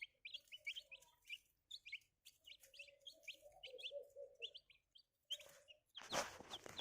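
Day-old white broiler chicks peeping: a flock of short, high, falling peeps, several a second. A short rustle sounds near the end.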